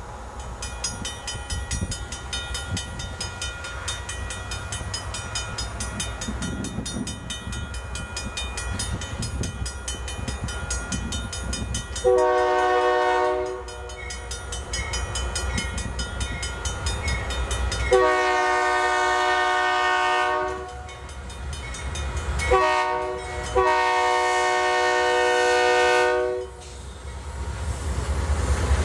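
Diesel locomotive air horn sounding the grade-crossing signal, two long blasts, a short one and a long one, over the steady rumble of the approaching locomotives.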